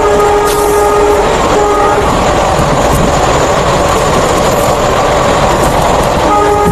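Indian Railways express train running at speed. Its locomotive horn sounds at the start, briefly broken, then gives way to a steady noisy rush of the train passing, and the horn sounds again near the end.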